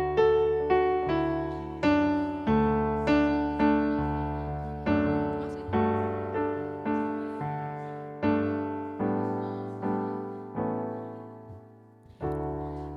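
Piano accompaniment playing a slow intro: chords struck about twice a second, each fading, with a brief pause near the end before the next chord, leading into a sung song.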